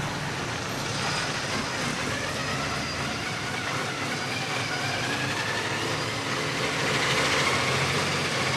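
Heavy logging truck running along a rough dirt road, a steady rumble and rattle with faint wavering squeaks. It swells slightly louder about seven seconds in.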